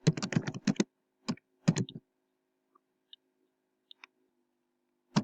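Typing on a computer keyboard: a quick run of keystrokes, a few more short bursts just after, then scattered faint key clicks and one sharp keystroke at the end.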